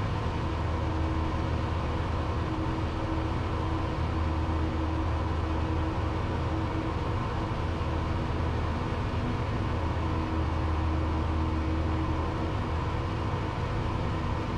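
Cessna 172's piston engine and propeller drone steadily in the cockpit during cruise descent on final approach.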